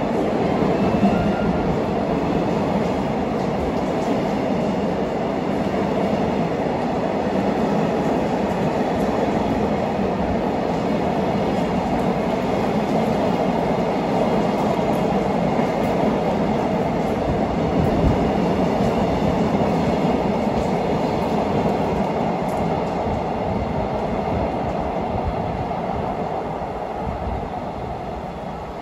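Container freight train's wagons rolling past at speed: a steady rumble of wheels on rail with an occasional knock, fading away near the end as the last wagons go by.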